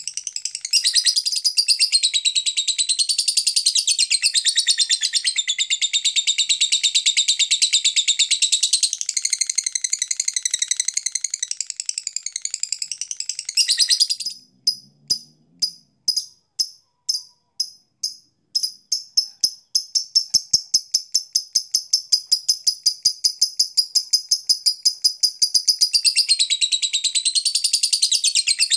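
Lovebird singing: a long, dense, high-pitched chattering song that breaks off about halfway into separate sharp chirps with short gaps, then a fast, even run of repeated chirps, before the dense chattering comes back near the end.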